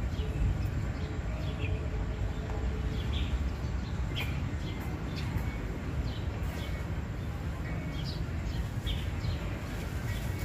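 Small birds chirping, many short falling chirps scattered through, over a steady low rumble.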